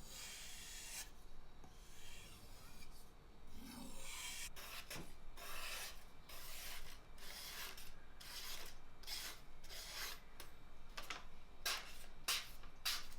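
Steel kitchen knife blade being stroked back and forth on a wet whetstone, a repeated gritty scrape. The first strokes are longer; in the second half they come shorter, about two a second.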